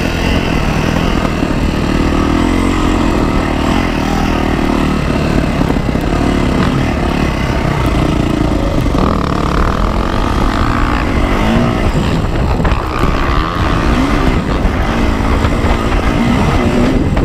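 Yamaha YZ450F dirt bike's single-cylinder four-stroke engine running under throttle, its pitch rising and falling as the rider gets on and off the gas.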